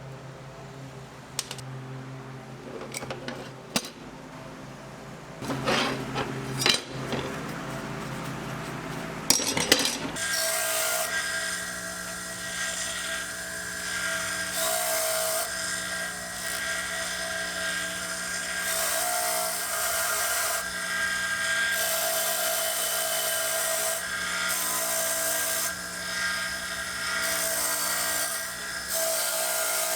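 Scattered clicks and knocks of parts being handled, then an electric power tool starts about a third of the way in and runs with a steady whine. The noise swells and eases every second or two as the tool bears on the work.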